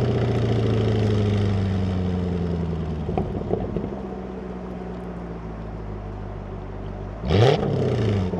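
Jaguar F-Type's 5.0 supercharged V8 through its stock exhaust: the engine note sinks as the car slows, with a few short pops about three seconds in, then settles to a lower steady drone. Near the end a sharp throttle blip sends the revs up and back down, the loudest moment.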